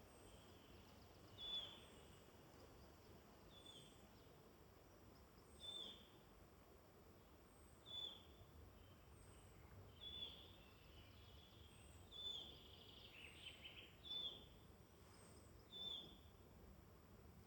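A songbird repeating one short, high, down-slurred call about every two seconds, faint over a low woodland background hiss. About two-thirds of the way through, another bird gives a brief burst of quick twittering notes.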